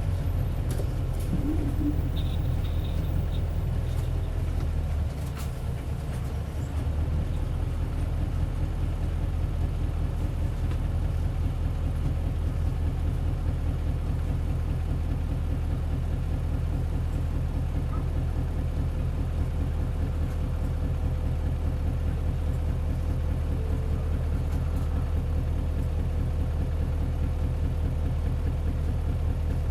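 Isuzu 8PE1-S V8 diesel engine of an Isuzu Cubic bus running at a steady speed, its pitch level, with a brief drop in loudness about five seconds in.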